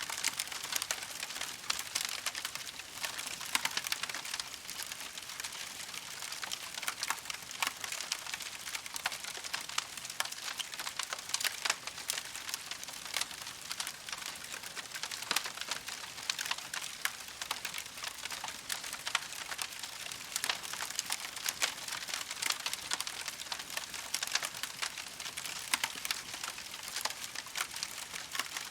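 Wood campfire crackling steadily, a dense, unbroken run of small pops and snaps.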